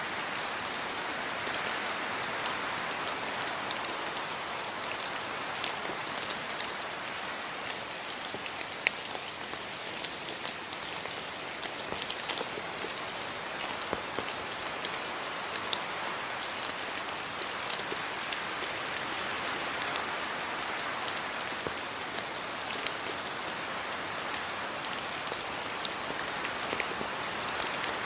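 Steady rain falling on a house yard, with many individual drops pattering on surfaces.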